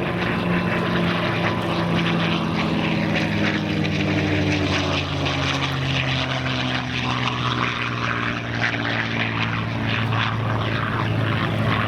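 P-51 Mustang's Packard Merlin V-12 engine and propeller running in flight. The drone drops gradually in pitch over the first half, then holds steady, with a crackling edge on top.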